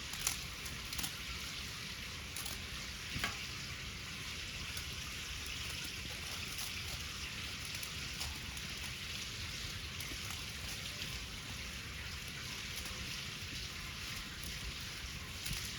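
Cooking over a wood bonfire: a steady sizzling hiss with a few sharp crackling pops.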